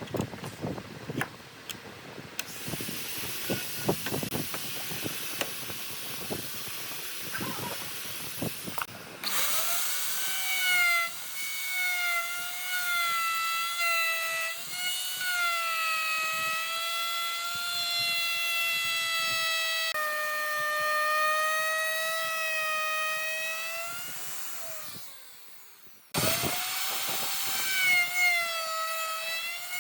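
Woodworking lathe cutting wood with a steady, high whine that wavers slightly in pitch, after several seconds of irregular knocks and clicks. The whine fades out, stops briefly, then starts again near the end.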